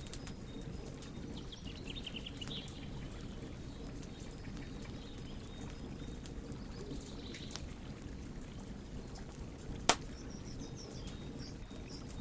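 Wood fire burning with a steady low rumble and scattered small crackles, and one sharp, loud pop about ten seconds in.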